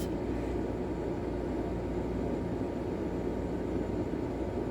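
Steady rushing noise of strong thunderstorm wind, heard from indoors through a window.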